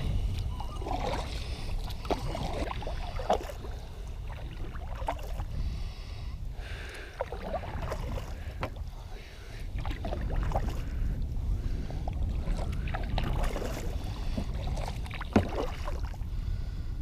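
Kayak paddling on a creek: irregular paddle splashes and water knocks over a steady low rumble.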